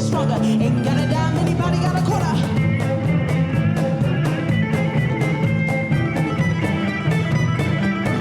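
Up-tempo instrumental string-band music: plucked and strummed strings over sustained low notes, with a fast, even beat that becomes prominent a few seconds in.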